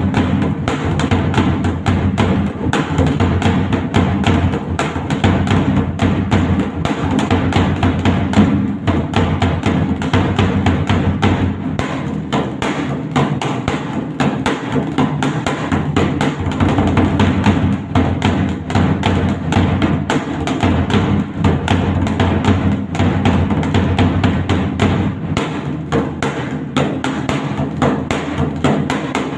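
Dhak, a large double-headed barrel drum, beaten with sticks in a fast, steady stream of strokes.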